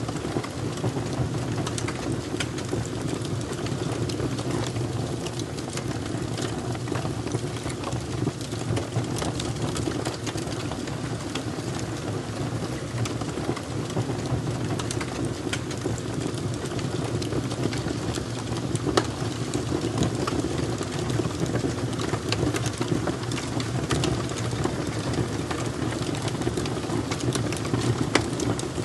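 Fire crackling: many irregular sharp pops and snaps over a steady low rush.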